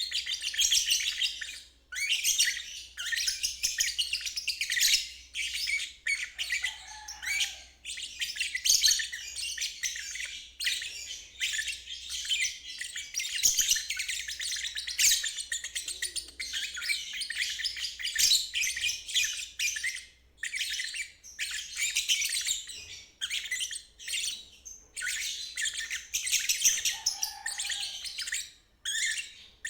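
A lovebird singing in the long 'ngeriwik' style: rapid, high-pitched chattering in long unbroken runs, with a few short pauses. A faint low hum lies underneath.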